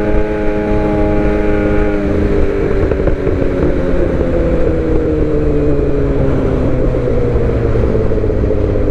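Suzuki GSX-R750 inline-four sport bike running with aftermarket headers, mid-pipe and M4 slip-on exhaust: a steady engine note for about two seconds, then the note drops and slowly falls as the bike eases off, over heavy low rumble and wind noise.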